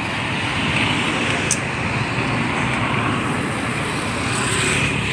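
Steady road traffic noise: vehicles running along the road with no single engine standing out.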